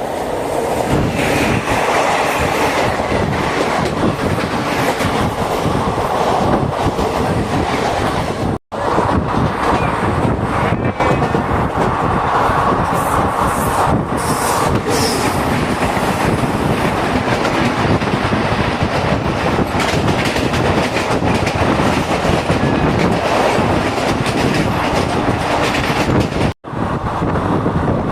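Jhelum Express passenger train running on the line, a steady loud rumble with wheels clattering over the rail joints, heard from aboard the coach. The sound drops out completely for an instant twice, about nine seconds in and near the end.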